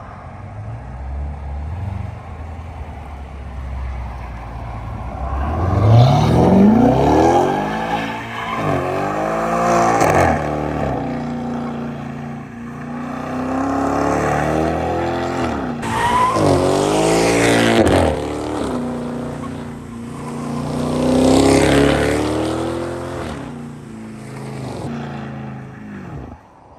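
Tuned turbocharged BMW engine under hard acceleration, the revs climbing steeply and dropping back several times with gear changes or lifts.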